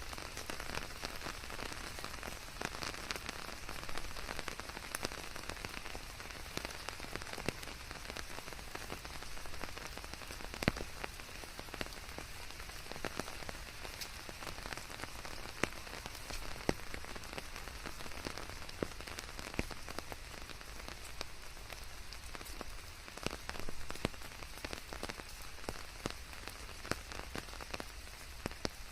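Steady rain pattering on leaves, with many separate drops ticking sharply through an even hiss.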